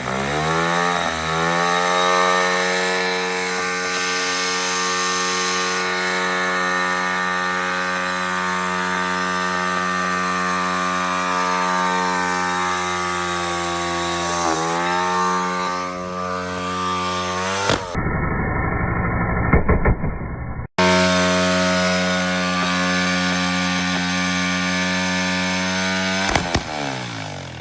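Small single-cylinder dirt bike engine catching and revving up, then held at high revs with a steady buzz. It sags once and climbs back, and winds down near the end. The engine is being run hard, leaking oil, until it blows up.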